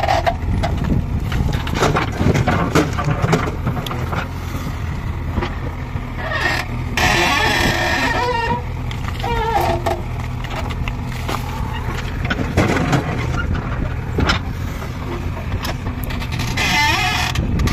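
Diesel engine of a JCB 3DX Eco backhoe loader running steadily under work, with a brief hissing burst about seven seconds in.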